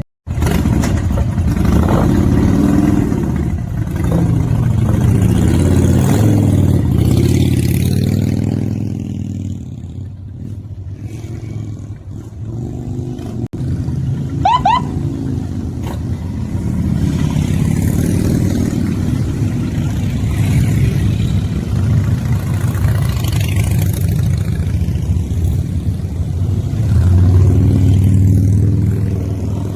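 Motorcycle engines running while being warmed up, a steady low engine note that swells with a few revs and settles back, louder again near the end. A short chirp is heard about halfway through.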